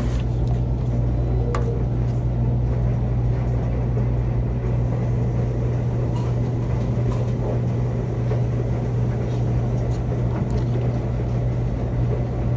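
Steady road and engine noise heard from inside a moving car, mostly low-pitched, with a few faint clicks.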